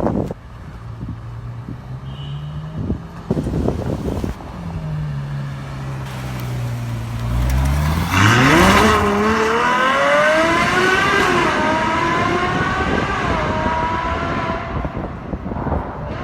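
A sports car engine ticks over at low revs, then accelerates hard from about seven seconds in. The pitch climbs steeply and keeps rising through two upshifts, then fades toward the end.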